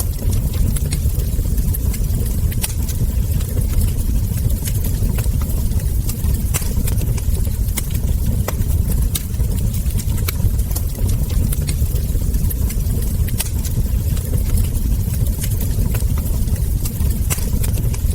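Wood fire crackling: irregular sharp crackles and ember pops, several a second, over a steady low rumble of burning flames.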